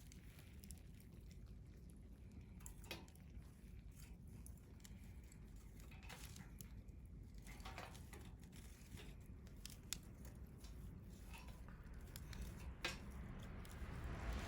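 Wood fire burning quietly, with a faint low rumble and scattered sharp pops and crackles, a few seconds apart.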